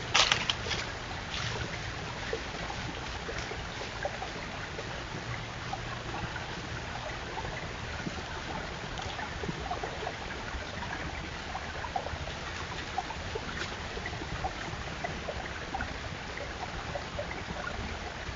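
Steady outdoor background hiss with a low hum, dotted with faint scattered clicks.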